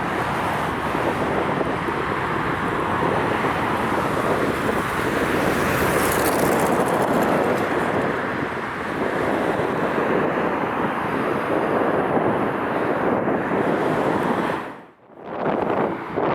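Strong wind buffeting the microphone, a steady rushing noise that drops out briefly about fifteen seconds in.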